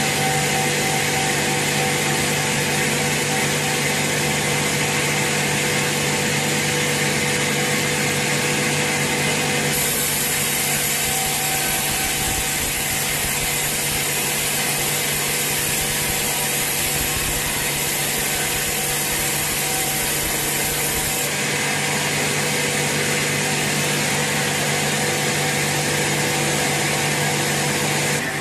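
Sawmill saw cutting a large teak log, running with a steady hum under a broad hiss. For about eleven seconds in the middle the sound turns brighter and hissier.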